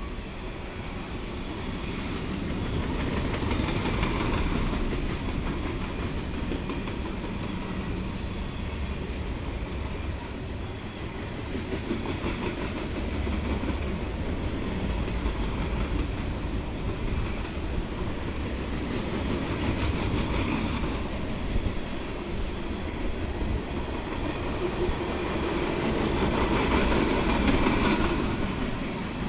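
Freight train cars, tank cars and covered hoppers, rolling past on steel wheels: a continuous rumbling rail noise that swells a few times, loudest near the end.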